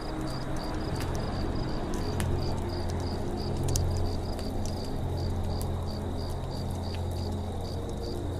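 Campfire crackling with scattered sharp pops, under a cricket chirping steadily about two to three times a second, with a low steady hum beneath.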